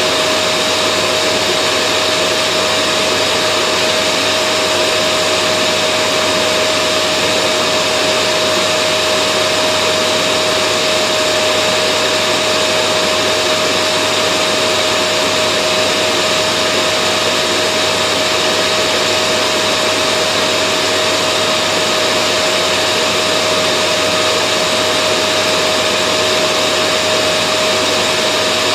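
Vacuum cleaner motor running steadily: a constant airy rush with a steady mid-pitched whine, no change in speed or load.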